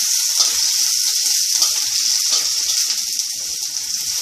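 Garlic and onion frying in hot cooking oil in a pan: a steady sizzle with small crackles and pops.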